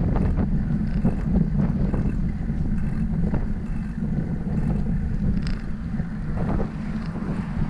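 Wind buffeting the microphone of a camera on a moving bicycle: a steady low rumble, with faint scattered clicks and rattles.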